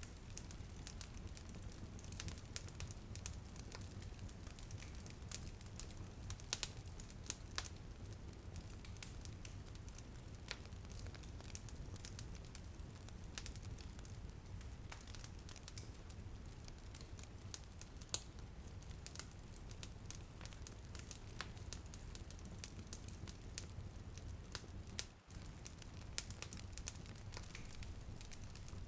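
Wood fire crackling in a fireplace: irregular sharp pops and snaps over a steady low rumble, with light rain pattering on a window.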